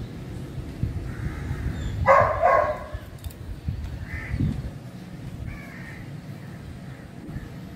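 A bird's harsh call, loudest once about two seconds in, with a few fainter calls after it. Under it, a spoon scrapes and knocks softly in a metal tin during the first few seconds.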